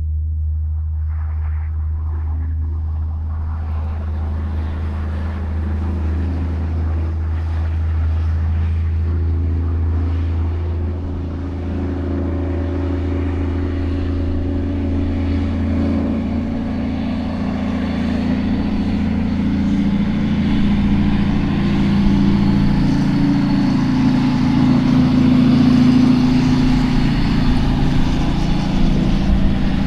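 Heavy truck's diesel engine running steadily; a little over halfway through its note climbs and it grows louder.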